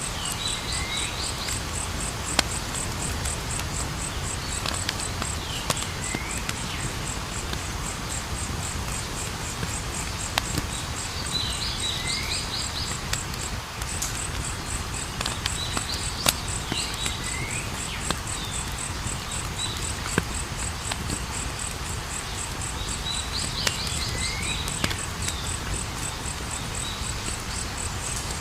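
Campfire burning with sharp, scattered crackles and pops over a low steady rumble. Crickets trill in a steady pulsing chorus behind it. A short chirping call repeats every few seconds.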